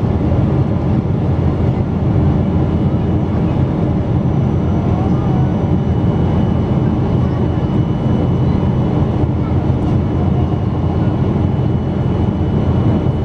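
Steady cabin noise inside a Boeing 777-200 airliner in flight: the even drone of the engines and rushing air, with a faint steady high whine above it.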